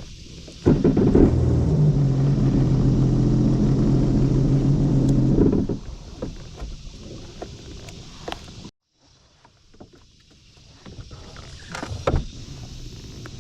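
Boat engine starting about a second in and running at a steady idle for about five seconds before stopping, with a few light knocks later on.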